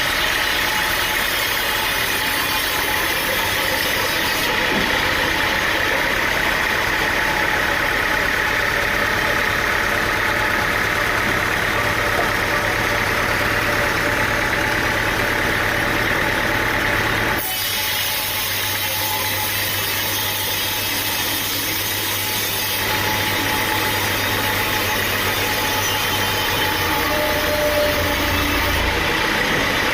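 Engine-driven sawmill machinery running steadily, with a constant high whine over a low engine drone. The sound changes abruptly about 17 seconds in to another steady run of machinery.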